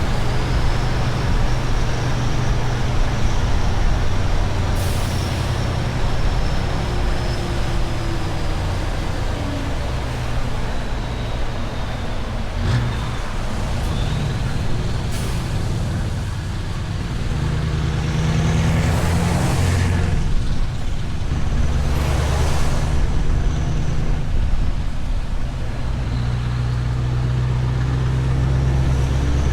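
Scania V8 truck engine running through an open exhaust pipe, its low note swelling at times. Several short hisses of air from the truck's air system break in along the way.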